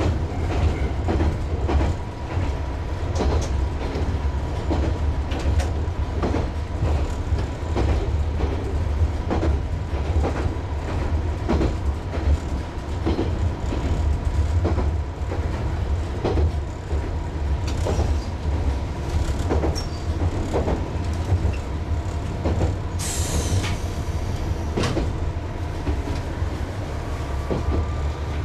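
Hi-Mo 230 diesel railcar running slowly under a steady low engine drone, its wheels clicking over rail joints about once a second. A brief high, falling squeal comes about two-thirds of the way through.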